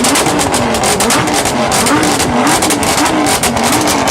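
Lamborghini Huracán's V10 engine revved in quick repeated blips, its note rising and falling about once a second, over a dense crackle from the exhaust.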